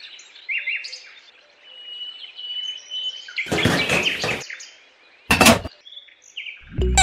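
Birds chirping and whistling in a countryside ambience, with two short rustling sounds about three and a half and five seconds in. A cow's moo starts right at the end.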